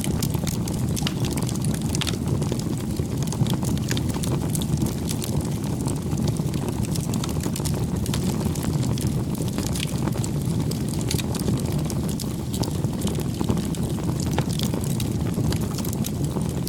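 Campfire burning: a steady low rush of the flames with frequent small crackles and pops from the burning wood.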